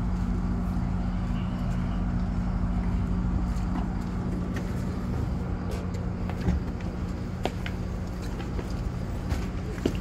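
GO Transit bilevel commuter train standing at the platform with its doors open, giving a steady low hum. Scattered sharp clicks and taps join in from about halfway through.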